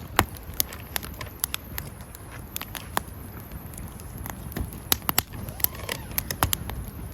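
Wood campfire crackling, with frequent irregular sharp pops and snaps over a low, steady rumble of the burning fire.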